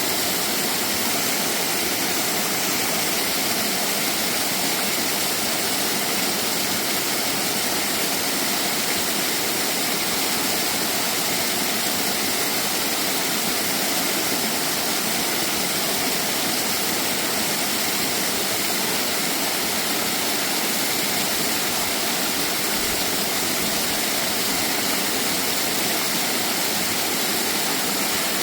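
Small mountain waterfall: water pouring and splashing in a steady, unbroken rush.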